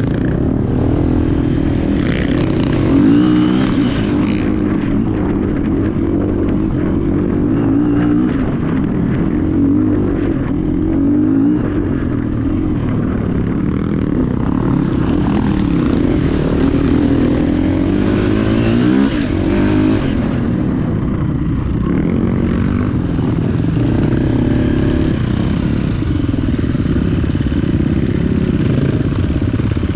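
Dirt bike engine running on a trail ride, its revs rising and falling over and over as the throttle is opened and closed, with some clatter.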